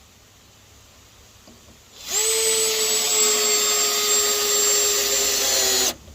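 A handheld electric power tool starts about two seconds in, runs at a steady speed with a high whine for about four seconds, then cuts off sharply.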